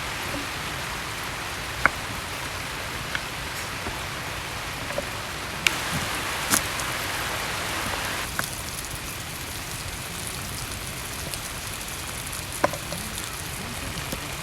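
Steady rain falling, an even hiss that eases slightly about eight seconds in, with a few sharp ticks scattered through it.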